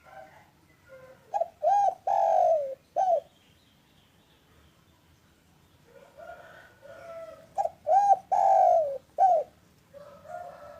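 Spotted dove (local derkuku, or tekukur) cooing in two song phrases. Each phrase starts with soft notes, then two short loud coos, one long drawn-out coo and a final short coo.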